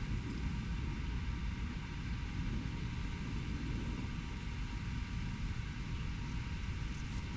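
Steady low rumble of distant urban road traffic, with no distinct events.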